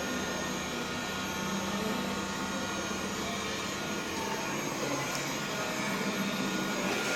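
Xiaomi Mi Robot Vacuum-Mop 2 Ultra robot vacuum running steadily as it cleans: an even whir with thin, steady high-pitched whines over it.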